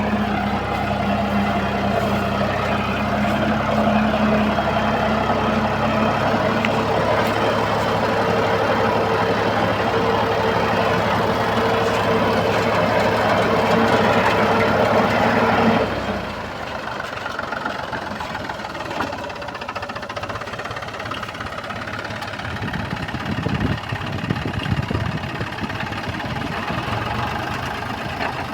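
Mahindra 265 DI tractor's three-cylinder diesel engine running steadily and loudly, then dropping suddenly to a quieter, lower running about sixteen seconds in.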